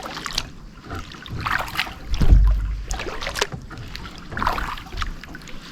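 Kayak paddle strokes: the paddle blades dip and splash in the creek water in a steady rhythm, about one stroke a second, with a low thump about two seconds in.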